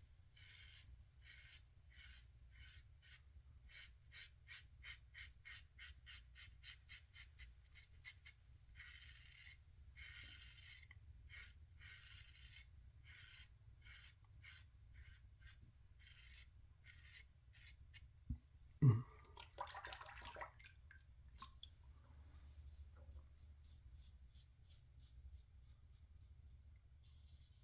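1958 Gillette TV Special safety razor shaving against the grain, short quick scraping strokes through stubble, a few a second, with a pause now and then. About two-thirds through there is a single knock followed by a brief rush.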